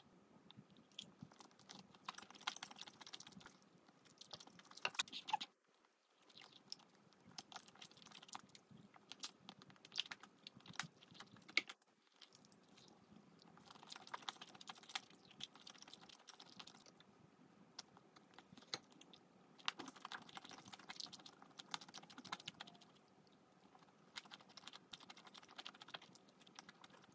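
Quiet, close-miked eating sounds: chewing and nibbling, a dense run of small crunches, clicks and mouth sounds, pausing briefly twice.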